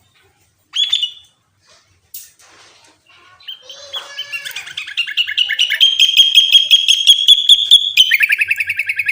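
Sooty-headed bulbul (kutilang) singing: a short call about a second in, then a loud, rapid run of repeated notes that holds steady and drops lower near the end.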